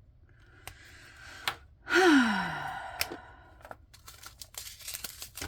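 A person sighs aloud about two seconds in: a breathy in-breath, then a loud out-breath with the voice falling in pitch. A few sharp clicks come before and after it, and light crinkling and clicking near the end.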